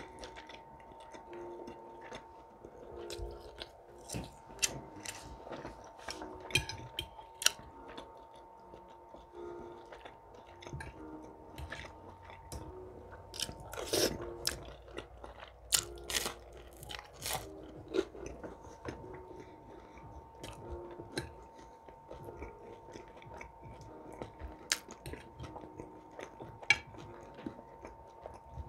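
A person chewing and biting mouthfuls of a breakfast of baked beans, bacon, eggs and buttered toasted English muffin, with irregular sharp crackles and clicks throughout.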